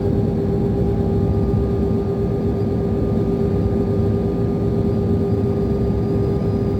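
Scania DC13 13-litre inline six-cylinder diesel of a Scania K440 IB coach, heard from inside the passenger cabin, running steadily under way. A steady whistling whine sits over the engine drone, with no gear change.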